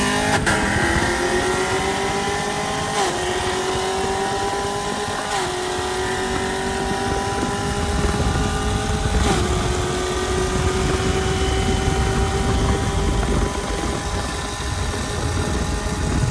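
Street truck engine accelerating hard through the gears. Its pitch climbs steadily and drops briefly at upshifts about three, five and nine seconds in. A low rumble of wind and road noise grows from about eight seconds.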